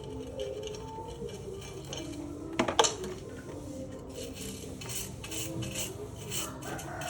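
Metal engine parts and hand tools clinking during engine work: a sharp double clank of metal on metal a little before the middle, then rhythmic scraping strokes about twice a second.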